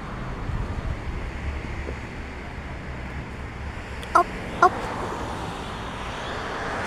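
A crow calling twice in quick succession, two short caws about four seconds in, over a steady low hum of distant traffic.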